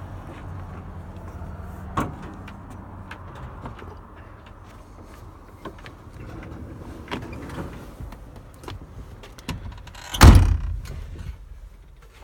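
Small clicks and knocks, then about ten seconds in, a truck cab door shuts with one loud, heavy slam.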